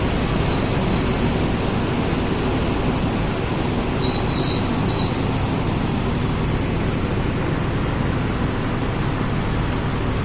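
Train running through a railway station, a steady loud rumble of wheels on rails with a thin high wheel squeal that rises and fades around the middle.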